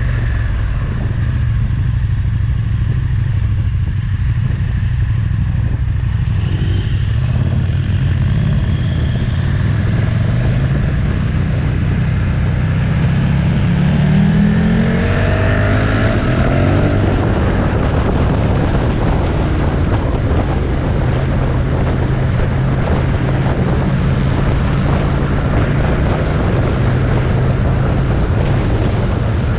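Motorcycle engine running on the move, with wind buffeting the microphone. About halfway through, the engine note rises as the bike accelerates, and the wind rush grows stronger afterwards.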